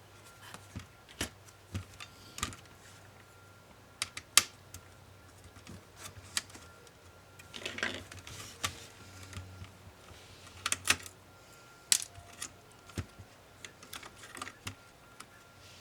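Irregular clicks and taps of small HP ProBook 450 G5 laptop parts being handled and set down during disassembly, with a short scraping rustle about halfway through.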